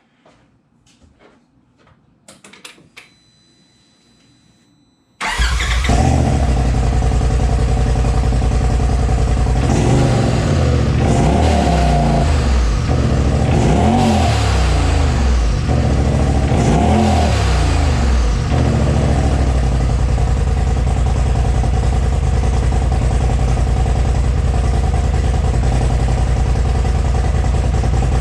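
A few light clicks, then the turbocharged engine of a Polaris RZR Pro side-by-side with a Gibson aftermarket exhaust starts about five seconds in and runs. It is revved up and back down three times, then settles to a steady idle.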